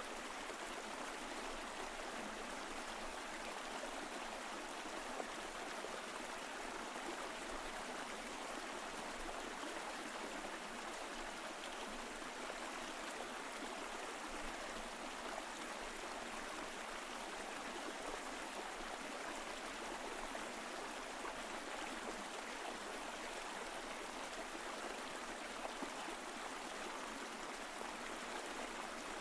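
Mountain stream flowing: a steady, even rush of water that does not change.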